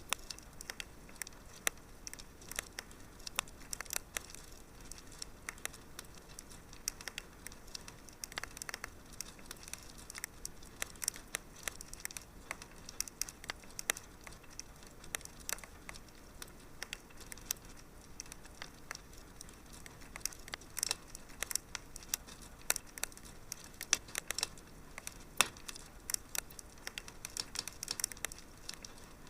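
Wood fire crackling in a fireplace: many small irregular pops and snaps, a few sharper ones, over a soft steady hiss.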